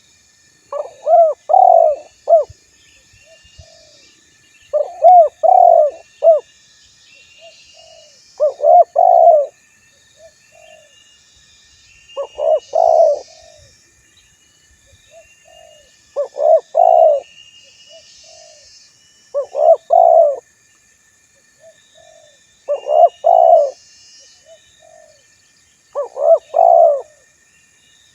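Male spotted dove cooing its call over and over, a phrase about every three to four seconds made of a few quick coos, with softer single coos between phrases. Faint chirps of other small birds sound in the background.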